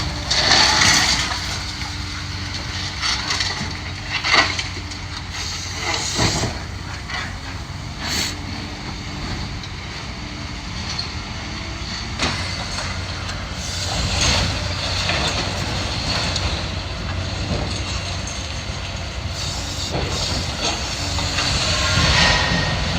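Demolition machinery running steadily while bricks and debris crash and scrape down from a brick building being torn apart. Loud crashes come about half a second in, around four and six seconds, and again around fourteen and twenty-two seconds.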